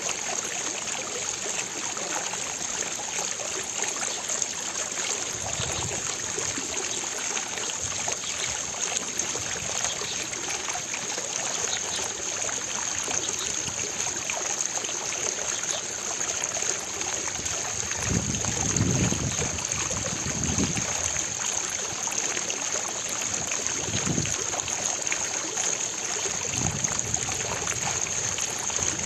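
Fountain water splashing and trickling steadily into its basin, with a few soft low rumbles in the second half.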